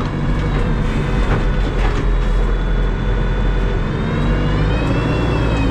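Terex TLB-815 backhoe loader's diesel engine running steadily, with a high whine that rises and then falls near the end.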